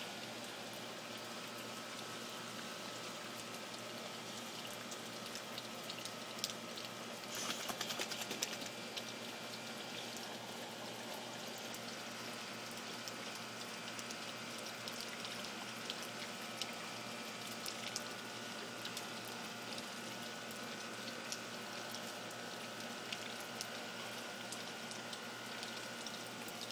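Steady rain falling on a wooden deck, with a constant hiss and scattered drips and taps, and a brief flurry of louder taps about a third of the way through.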